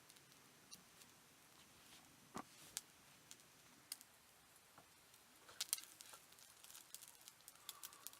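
Faint, scattered small clicks and ticks, a few at first, then coming thicker from about two-thirds of the way through.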